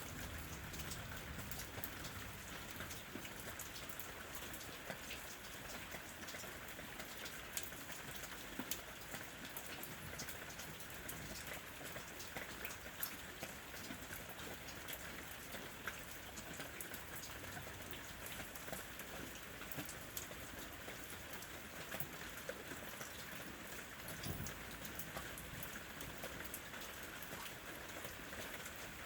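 Steady rain: an even hiss of falling rain with many individual drops ticking sharply on a surface.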